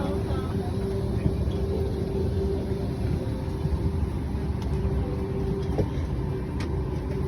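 Steady low rumble with a constant hum from a Boeing 737-800 parked at the gate during boarding, its cabin air-conditioning running. A few faint clicks come in the second half.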